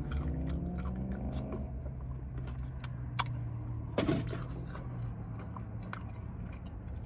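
Close-up chewing and biting of chicken wings: wet mouth clicks and smacks over a steady low hum, with one louder bite or crunch about four seconds in.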